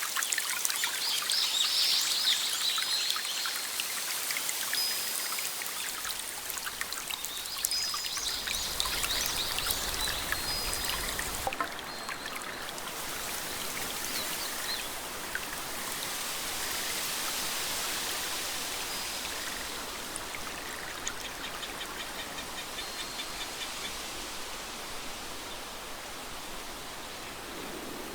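Rain falling with water trickling, a steady hiss full of small drop ticks, with a few short high bird chirps in the first ten seconds. About eleven seconds in it drops to a softer, even rain hiss.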